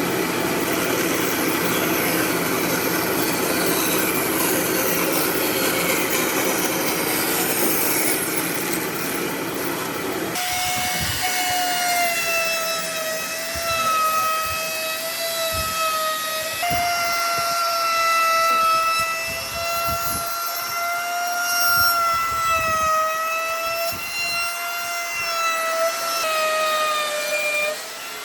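Electric power tool working wood: for about ten seconds a dense grinding noise, then, after an abrupt change, a steady motor whine that wavers slightly in pitch as the load on it changes.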